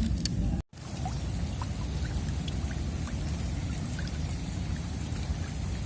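Steady rain falling: an even hiss with scattered drop ticks, broken by a brief cut to silence less than a second in.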